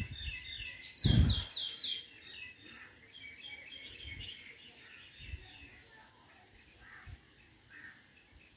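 Small birds chirping in quick runs of short repeated notes, busiest in the first two seconds and then thinning out. A few low thuds, the loudest about a second in.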